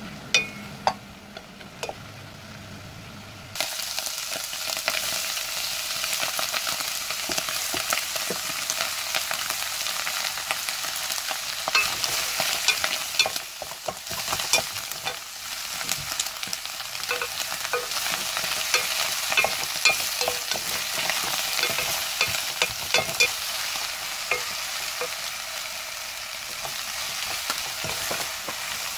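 Bacon and diced vegetables sizzling as they fry in a pot, stirred with a wooden spatula that scrapes and clicks against the pot. The sizzle grows louder about three seconds in.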